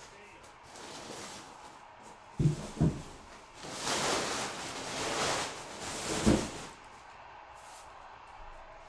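Handling noise on a table: two thumps, then about three seconds of rustling and scraping that ends with another thump.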